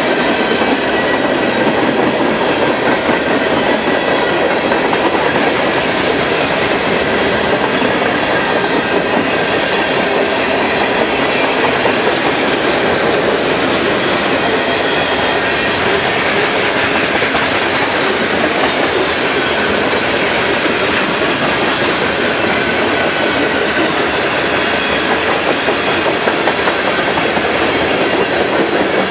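Freight train cars, first boxcars, then tank cars and covered hoppers, rolling past at steady speed: a loud, continuous rumble of steel wheels on rail, with clickety-clack over the rail joints.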